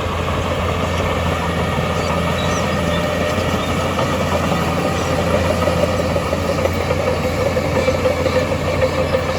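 Heavy earthmoving machine's diesel engine running steadily, with a constant low hum and a steady mid-pitched whine over it.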